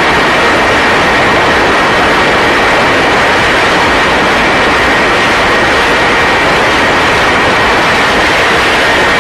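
Loud, steady engine roar with a thin, steady high whine above it, even throughout.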